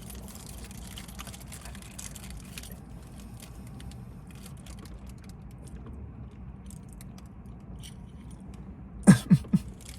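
A person eating a honey bun: faint chewing with small crinkling clicks over a low steady hum, then about nine seconds in a short voiced sound in three quick pulses, the loudest thing heard.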